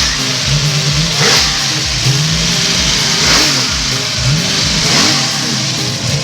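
565 cubic inch big-block V8 with a solid roller cam, running through Flowmaster exhaust and being revved in repeated blips, the pitch climbing and dropping back every second or two.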